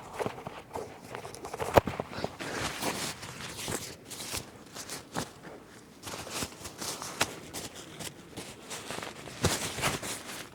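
Footsteps and rustling on forest ground: irregular crunches with a few sharper snaps, the loudest about two seconds in and again near the end.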